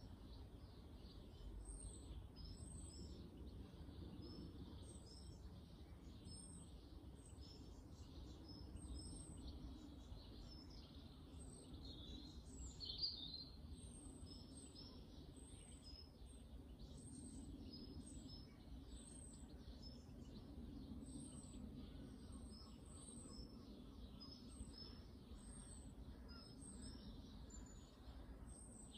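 Faint garden birds calling: many short, high chirps repeating throughout, with one louder call about halfway, over a low steady background rumble.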